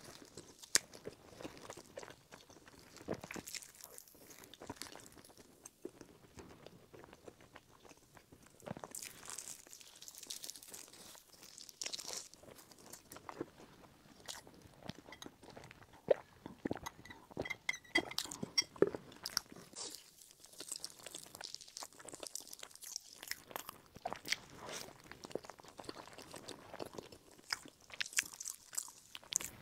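Close-miked chewing and biting of a soft tiger-skin bread roll with a purple sticky-rice filling: uneven, wet mouth sounds and small crunches, with a cluster of sharper clicks about halfway through.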